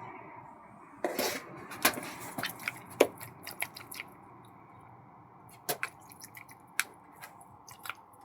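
A bird pecking at a window with its beak: a run of sharp, irregular taps and knocks on the glass, in two bursts separated by a short pause.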